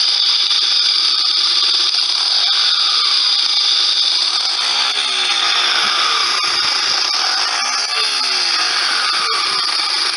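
A loud, steady machine noise of the power-tool kind, a continuous whir and hiss with little low end, starting abruptly.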